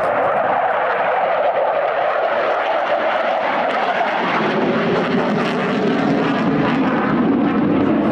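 Jet aircraft flying past at an airshow display: a loud, steady rushing engine noise whose pitch slides gradually downward as it goes by.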